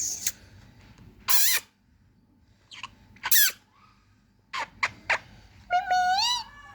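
Pet parrot making a series of short, shrill calls at irregular intervals, with a longer wavering call near the end.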